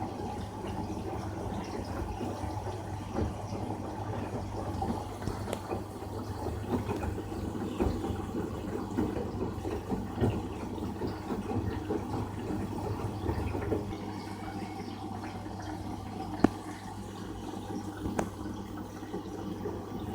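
LG direct-drive front-load washing machine in its rinse: water running in and sloshing in the drum over a steady low hum. A single sharp click about sixteen seconds in.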